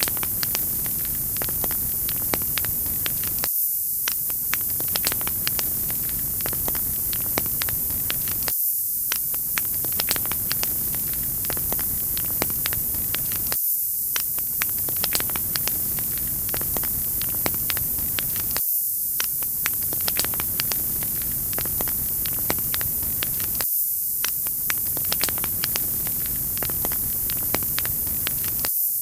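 Wood fire crackling in a fireplace: scattered sharp pops and crackles over a steady bright hiss. The same short recording repeats about every five seconds, with a brief dip in the lower sound at each restart.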